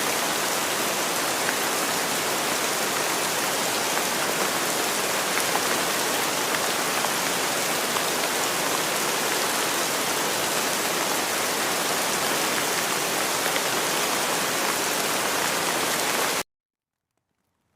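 Steady rain, a dense even hiss of many fine drops. It cuts off suddenly about a second before the end, leaving near silence.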